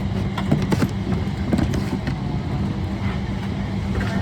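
Steady low cabin hum of a Boeing 777-300ER parked at the gate during boarding, with scattered small clicks and knocks.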